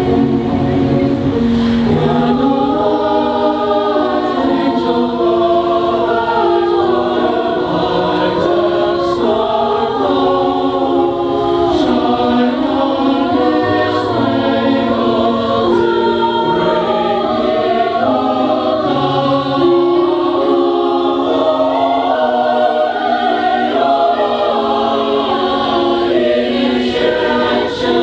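Choir singing a Christmas song in several voice parts, sustained notes moving from chord to chord with no break.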